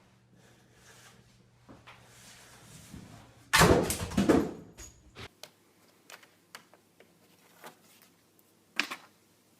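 A loud clatter of hard objects lasting under two seconds, about three and a half seconds in, then scattered light knocks and one sharper knock near the end.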